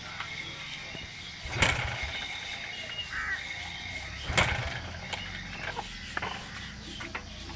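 Two sharp knocks about three seconds apart, over a faint steady background.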